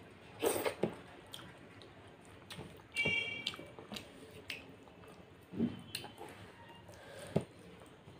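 Close-up eating sounds: wet chewing and mouth smacks of soft moong dal khichuri eaten by hand, with fingers squishing the rice against a steel plate. A brief high squeak comes about three seconds in.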